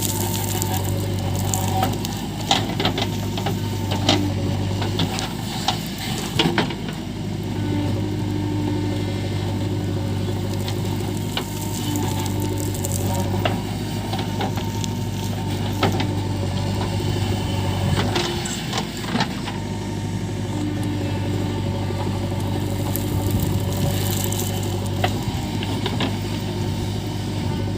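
JCB 3DX backhoe loader's diesel engine running steadily under work, with scattered clanks and knocks throughout.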